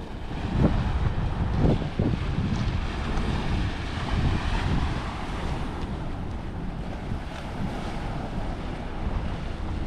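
Wind buffeting the microphone in gusts, strongest in the first two seconds, over the steady wash of ocean surf on a rocky shore.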